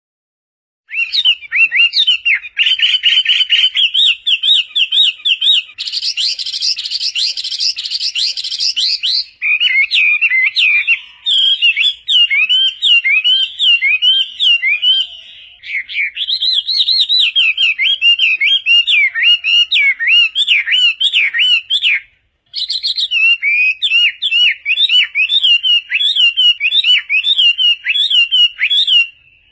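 Chinese hwamei singing loudly: fast runs of repeated, sweeping whistled notes in changing phrases, with a denser, higher-pitched stretch about six seconds in and short pauses between phrases.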